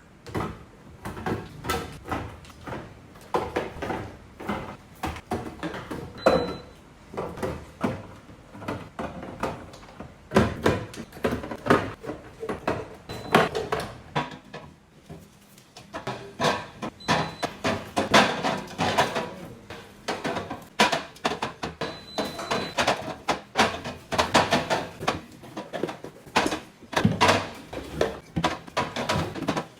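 Irregular knocks, clatters and rustles of containers and shelves being handled in an open refrigerator, with door-like bumps and a few brief high beeps.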